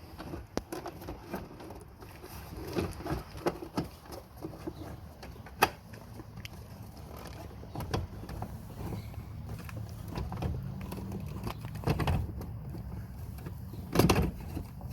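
Plastic glove box being worked loose and pulled out of a car dashboard: scattered plastic clicks, knocks and rattles, with one sharp click about five and a half seconds in and a short cluster of knocks near the end.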